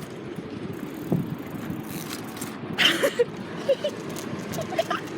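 Steady rolling noise of a bicycle being ridden, with short bits of voice about three seconds in and again near the end.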